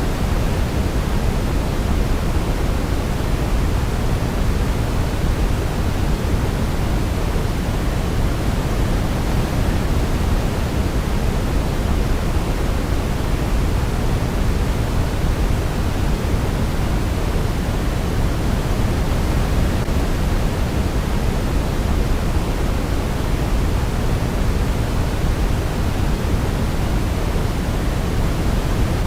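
Steady sleep-aid noise: an even, unbroken hiss, heavier in the low end, with no change in level.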